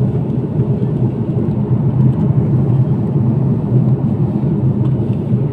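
Airplane cabin noise: a steady, loud low rumble from the aircraft, unchanging throughout.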